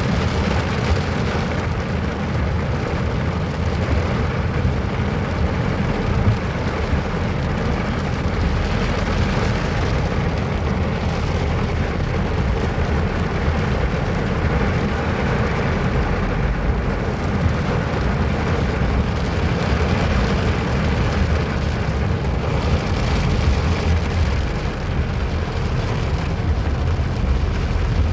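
Steady rain, with a deep, constant rumble under an even hiss.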